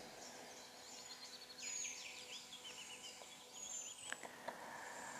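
Faint background birdsong: scattered high chirps and short descending trills, busiest in the middle, over a faint steady hum.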